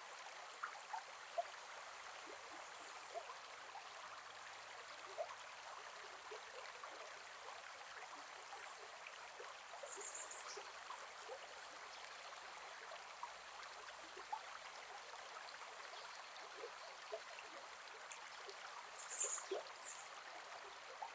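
Gentle forest river flowing: a steady rush of water sprinkled with small plops and gurgles. Brief high chirps come once near the middle and again near the end.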